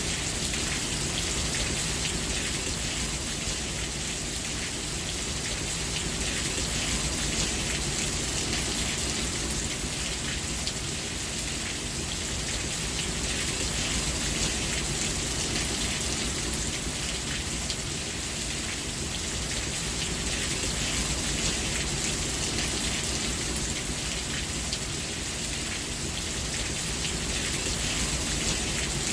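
Steady rain falling: a dense, even hiss of countless drops with fine individual drop ticks, swelling and easing gently every few seconds.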